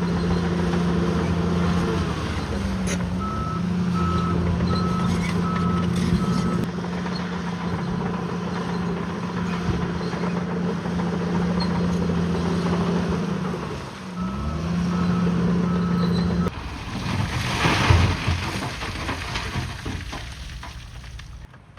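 Bulldozer diesel engine running steadily, its pitch dipping briefly twice as it shifts. Each dip is followed by a few seconds of reverse alarm beeping. A louder rough noise takes over near the end.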